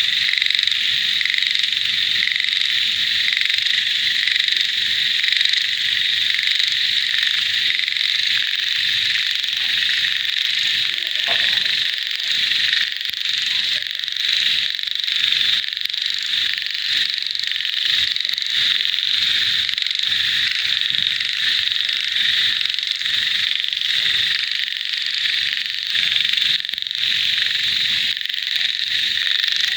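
A dense chorus of frogs mixed with insects: a steady, shrill massed calling with many overlapping croaks and pulses underneath.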